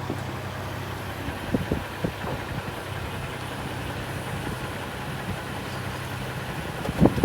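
2020 Toyota Tacoma pickup engine idling with a steady low hum, with a few faint knocks a couple of seconds in. The hum stops near the end, where a few louder thumps follow.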